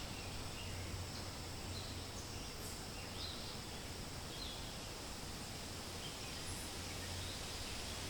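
Forest ambience: a steady hiss of wind through leaves, with scattered short, high bird chirps.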